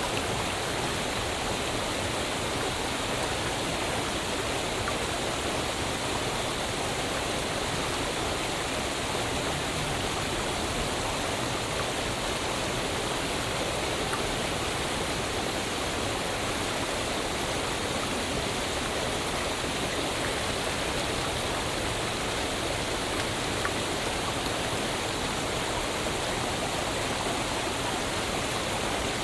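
Waterfall: water falling and splashing in a steady, even rush with no change or pause.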